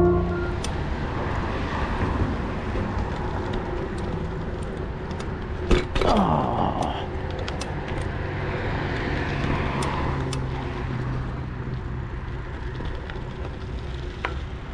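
Steady road traffic noise, with a vehicle passing about six seconds in, just after a sharp click.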